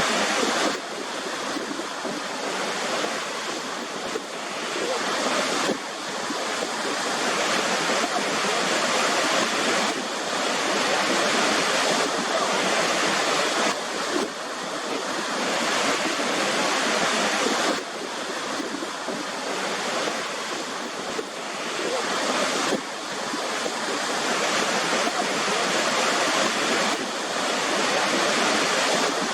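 Waterfall rushing steadily: a dense, even hiss of falling water, with small sudden shifts in level every four to five seconds.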